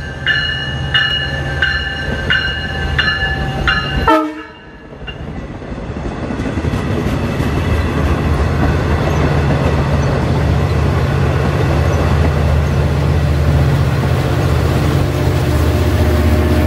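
Grade-crossing bell ringing with strikes about every two-thirds of a second, cut by a short sharp blast about four seconds in; then a Long Island Rail Road diesel train approaches and passes, its rumble and low engine drone building and staying loud.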